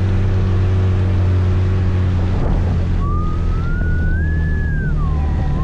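Scooter engine running steadily under wind noise on the move. About three seconds in, a single high tone rises, holds and falls away over nearly three seconds, like a siren's wail.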